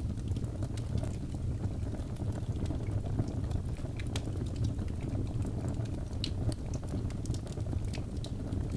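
Fire crackling in a fireplace: a steady low rush of flames with frequent small, sharp pops and snaps at irregular intervals.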